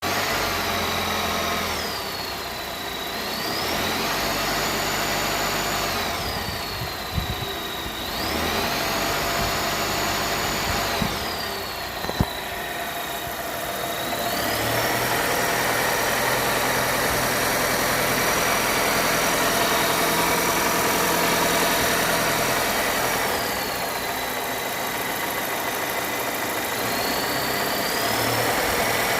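2021 Volvo S90 B4 mild-hybrid four-cylinder engine running and being revved up and held several times. A thin, high-pitched whistle rises and falls in pitch with the revs alongside the engine sound. The owner has not traced the whistle: it is not the turbo, and it persists after new PCV valve, oil separator, alternator, pulleys, timing belt, balance shaft, crank seal and damper pulley.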